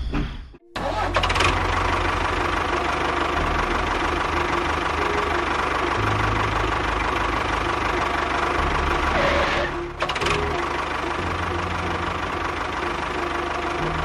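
Engine running steadily with a low rumble that shifts in pitch in steps. It cuts out abruptly just under a second in and is briefly broken again near ten seconds in.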